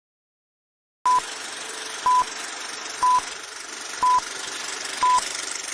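An electronic beep sounding briefly about once a second, five times, over a steady static hiss that starts about a second in.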